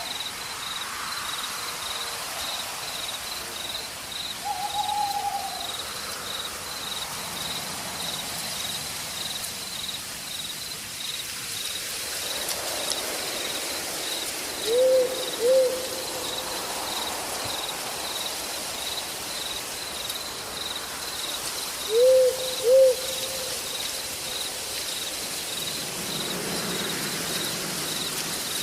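Night forest ambience: a steady, fast-pulsing insect trill, likely crickets, over a light hiss. A bird, likely an owl, calls a few times with low hoots; two of the calls are quick pairs of short hoots, the loudest sounds.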